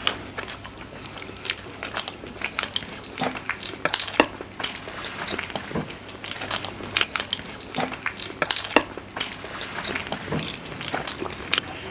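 People chewing mouthfuls of matar kachuri (deep-fried bread stuffed with peas), giving irregular soft crunches, smacks and clicks with no steady rhythm.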